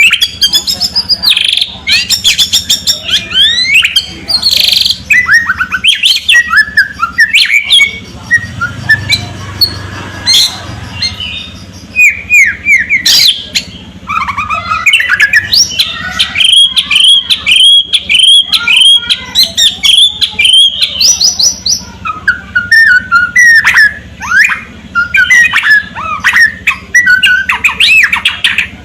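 White-rumped shama singing loudly and nonstop: a fast, varied song of whistles, rising and falling glides and harsh crackling clicks. Through the middle it delivers a long run of rapid repeated notes.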